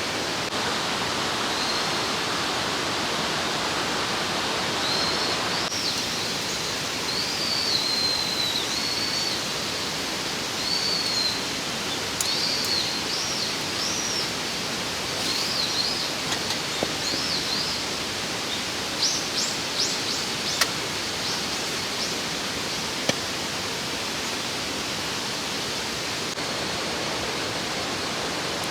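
Steady rushing of a mountain stream, with a bird singing high, arching notes over the middle of the stretch. A couple of sharp ticks sound later on.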